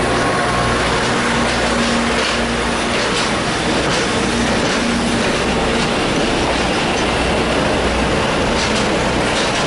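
Train rolling past at close range: a loud, steady rumble and rattle of wheels on track.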